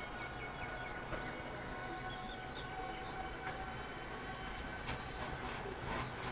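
Small birds chirping and twittering in quick, high calls, mostly in the first half, over a steady low rumble with a faint hum.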